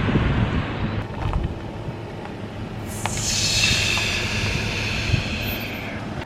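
Ford Econoline 350 van being driven: steady engine and road rumble with wind buffeting the microphone, and a hissing rush that comes in about three seconds in and lasts to near the end.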